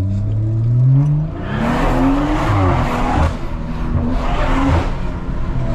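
Turbocharged B58 straight-six of a Stage 2 tuned BMW M440i pulling hard: the engine note climbs in the first second, then the sound turns rough and hissy for two long stretches while the engine pitch shifts.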